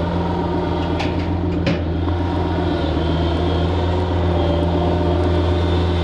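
Scania V8 truck diesel engine running at a steady low speed, a deep even drone, with two sharp clicks about a second and a second and a half in.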